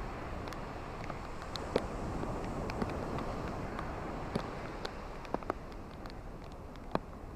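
Steady rain falling on a beach with ocean surf behind it, a dense hiss that swells gently and eases off, broken by scattered sharp ticks of nearby raindrops.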